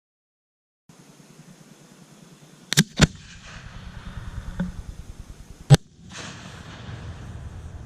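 Fireworks going off in sharp bangs: two loud reports in quick succession about three seconds in, a fainter pop, then another loud bang near the six-second mark.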